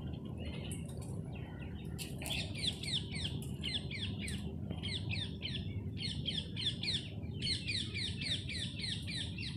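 Small birds chirping in quick repeated series of short, high falling notes, starting about two seconds in and coming in bunches, over a low steady background rumble.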